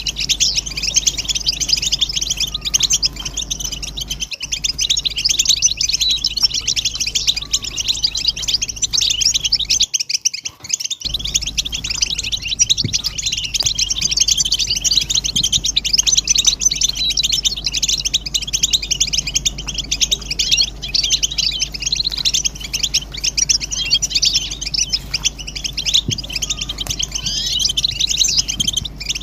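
A group of European goldfinches twittering and calling densely, many quick high chirps overlapping without pause; these are the goldfinch's mating and readiness calls. The chorus breaks off for about a second a third of the way in.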